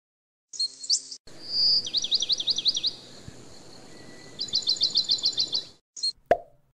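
Birdsong sound effect: two runs of rapid, repeated chirping trills over a soft background hiss, starting about half a second in and cutting off suddenly. A single sharp click follows near the end.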